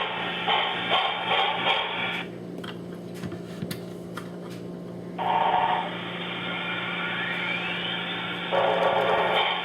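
Sound system of a Broadway Limited On30 2-8-0 model steam locomotive playing steam-engine sound through its small onboard speaker as it runs, with light clicking and rattling of the wheels on the track. The speaker sound drops out for about three seconds, leaving only the track clicks, then comes back.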